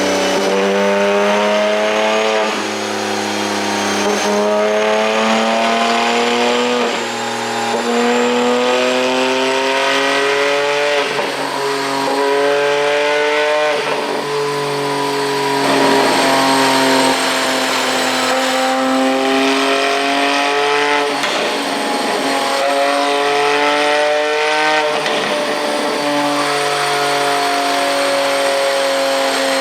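Porsche 718 Boxster GTS 4.0's flat-six engine and exhaust, with a pop-and-crackle ECU tune, pulling hard through the gears again and again: the engine note climbs for a second or two, then drops at each gear change. Rough crackling stretches come between some of the pulls.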